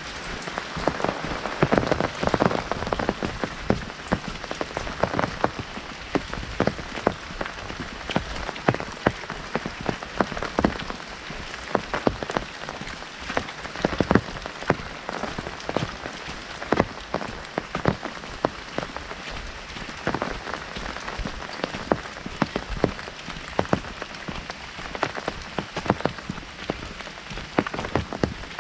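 Heavy rain falling on an umbrella overhead: a steady hiss with many sharp, irregular drop hits on the canopy.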